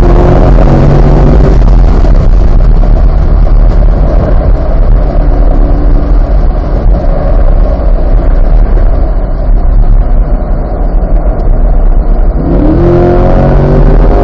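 Onboard sound of a C8 Corvette's 6.2-litre LT2 V8 on a race track. The engine note gives way to a loud, steady rushing noise for most of the stretch, then the V8 comes back in near the end, rising in pitch as the car accelerates.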